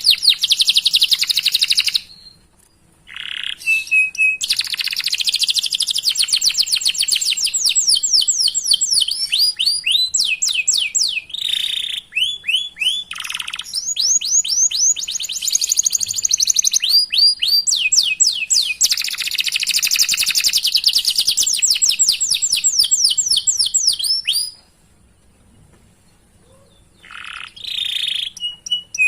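Domestic canary singing a long song of fast chirps and rolling trills of rapidly repeated high notes. It breaks off briefly about two seconds in and again for a couple of seconds near the end.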